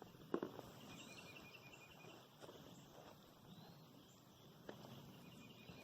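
Near silence: faint outdoor ambience with two short trains of high, rapid insect chirping and a soft tap early on.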